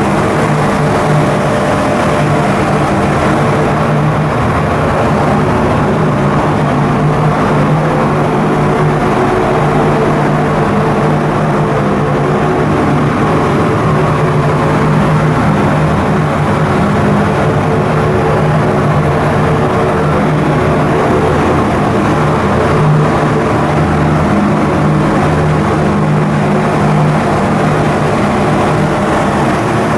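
Coastal cargo ship's diesel engine running steadily at constant speed under way on a sea trial, a loud, even drone with a steady hum.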